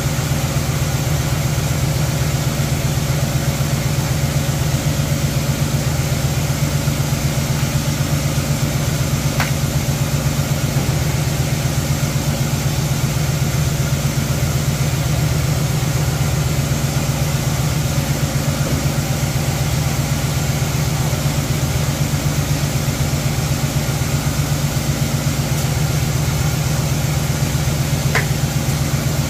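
1979 Chevrolet Caprice engine idling steadily, warmed up with its thermostat just opened. Two faint clicks come about a third of the way in and near the end.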